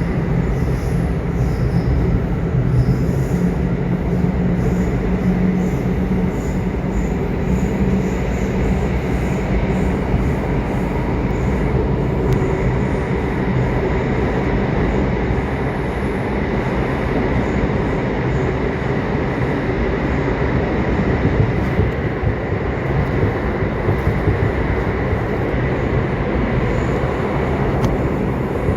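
Subway train running at speed: a steady, loud rumble of wheels on track with a faint high thin tone running through it.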